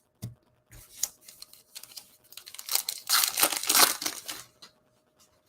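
A few light clicks of trading cards being handled, then a loud, dense crinkling from about three to four and a half seconds in as a trading-card pack wrapper is torn open.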